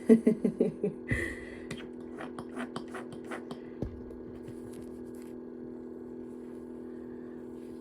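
A steady low electrical hum, with a run of short scraping clicks over the first few seconds from hair being handled and combed, then only the hum.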